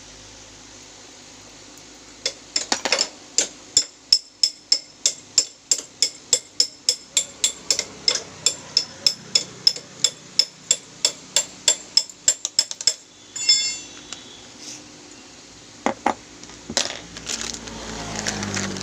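Even, sharp metal-on-metal tapping on motorcycle gearbox parts, about three ringing strikes a second for some ten seconds, as a bush is worked loose from the gear shaft. The tapping ends in a single ringing clink, followed by a few knocks of parts being handled.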